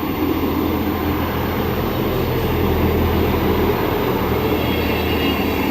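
Class 158 diesel multiple unit running in, a steady rumble of engines and wheels that grows slightly louder over the first couple of seconds.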